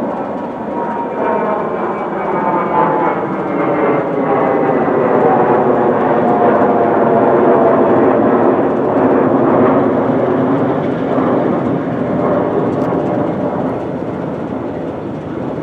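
Diesel freight locomotives of a Norfolk Southern train (a GE AC44C6M and an EMD SD70ACe) passing close with their engines running, a loud drone that grows to its loudest about midway and then eases off.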